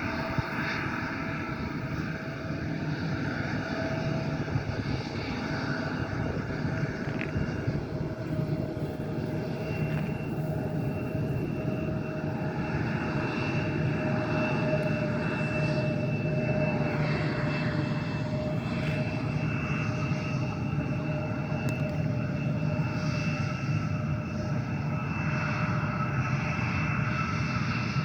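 Jet airliner's engines running steadily: a constant whine over a low rumble.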